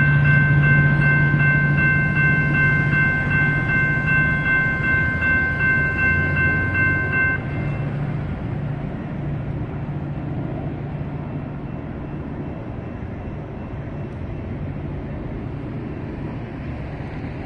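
Metra commuter train passing and fading away, its low rolling noise slowly dying down. Over it a railroad grade-crossing warning bell rings in a fast steady pattern and stops about seven seconds in.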